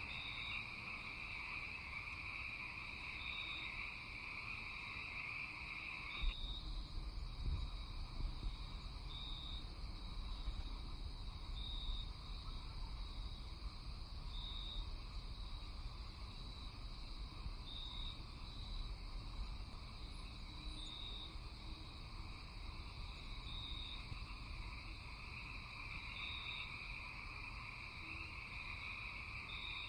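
Night chorus of frogs and insects. A steady high trill cuts off abruptly about six seconds in and swells back near the end, while a short high chirp repeats every two or three seconds over a low rumble.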